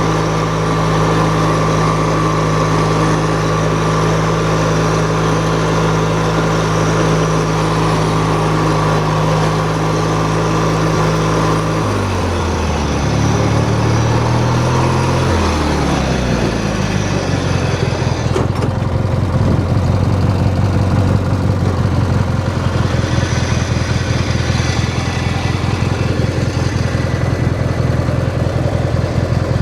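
Hechinger (MTD-built) lawn tractor's engine running steadily at high speed. About twelve seconds in it is throttled back: the pitch falls over a few seconds and it settles into a lower, evenly pulsing idle.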